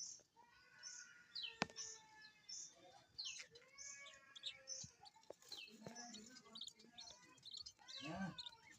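Budgerigars chirping and chattering in a rapid, overlapping string of short calls, with a sharp click about a second and a half in.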